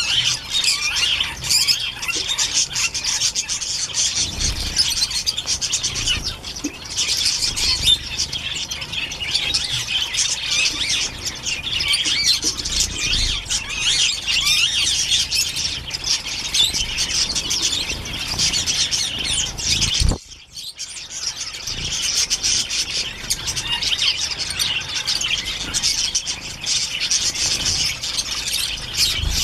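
Many small birds chirping and squawking at once in a dense, continuous chatter. It cuts out suddenly for under a second about two-thirds of the way through.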